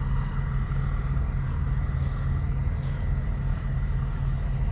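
Steady low rumble of an idling semi truck's diesel engine, with a faint steady high tone above it.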